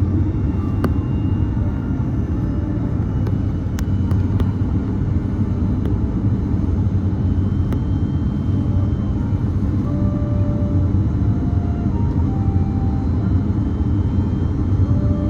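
Steady low rumble of an Airbus A330-300 airliner heard from inside the passenger cabin, with a few faint clicks about one and four seconds in.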